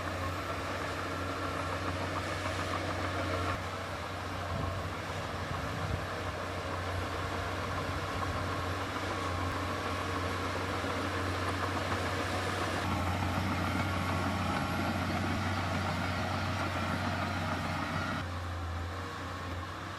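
Heavy diesel engine of earthmoving machinery running steadily with a low hum, its sound shifting abruptly a few times.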